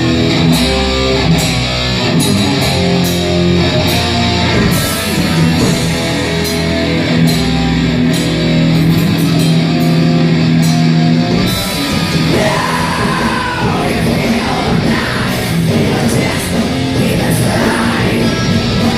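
A heavy metal band playing live: held, distorted guitar notes over drums and cymbals, with yelled vocals coming in a little past halfway.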